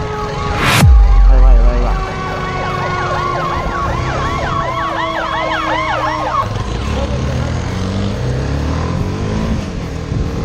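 Emergency-vehicle sirens sounding in traffic: long gliding tones, then a fast repeating up-and-down yelp for a few seconds. About a second in, a sudden loud sweep and low rumble is the loudest thing heard.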